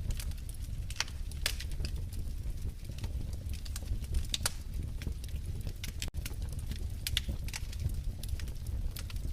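Wood fire crackling in a fireplace: irregular sharp pops and snaps over a steady low rumble of the flames. The sound drops out for an instant about six seconds in.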